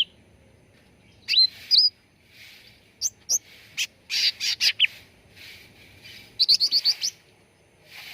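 Cucak ranting songbird calling in short whistled phrases: two rising notes, then a cluster of sharp chips, and a quick run of about six notes near the end.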